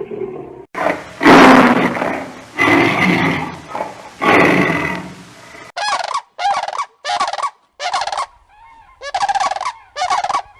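Domestic turkey calling: three long, loud calls in the first half, then a run of short calls at about two a second.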